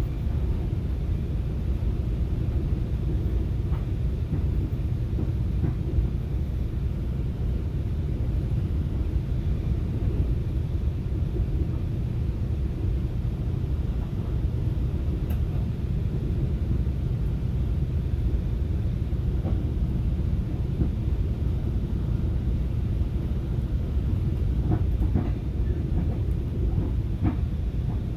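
Steady low rumble of a FrontRunner commuter train running along the line, heard from inside a passenger car, with a few faint clicks near the end.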